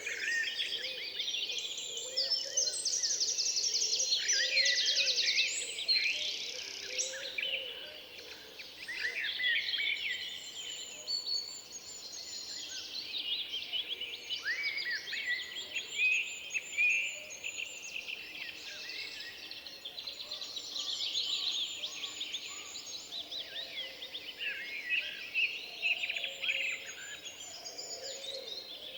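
Several songbirds singing at once, many overlapping chirps, whistles and trills, with a fast even trill about two to four seconds in.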